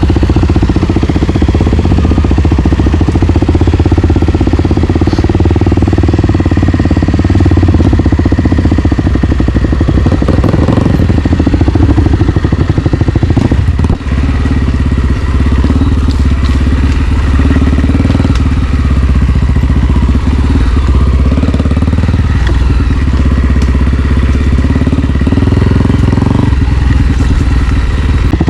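Single-cylinder four-stroke dirt bike engine running under throttle on a trail ride, steady and loud, with a brief drop in loudness about halfway through.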